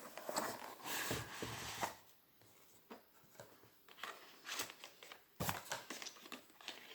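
Packaging rustling and crinkling as a box item is unwrapped and handled, then scattered small clicks and taps, the sharpest about five seconds in.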